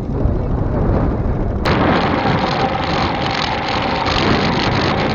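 Motorcycle running on the move, with wind buffeting the microphone and a steady low rumble. About one and a half seconds in, the sound turns suddenly brighter and hissier.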